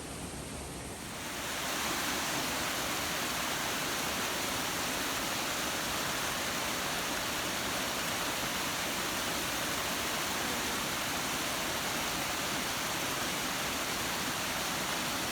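Steady rush of a mountain waterfall, growing sharply louder about a second in and then holding even.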